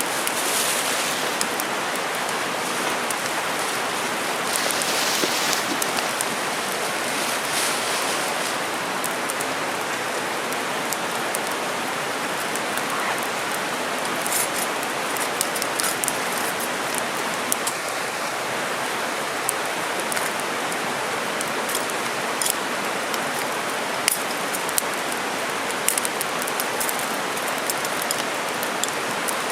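Mountain stream running with a steady rushing noise, with scattered sharp clicks over it in the second half.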